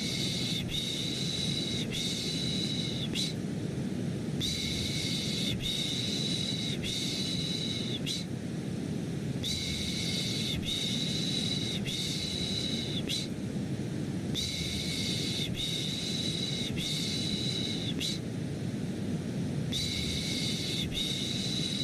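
A steady, deep white-noise hiss with a soft shushing 'psh psh' sound repeating over it, in runs of about four strokes that recur every five seconds or so.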